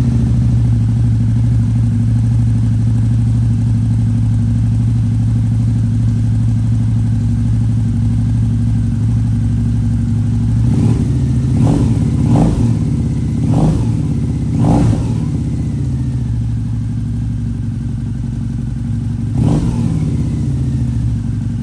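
A 2008 Harley-Davidson V-Rod Night Rod's liquid-cooled Revolution V-twin idling steadily just after its first start in years, following a fuel-system rebuild. About ten seconds in the throttle is blipped five times in quick succession, and once more near the end.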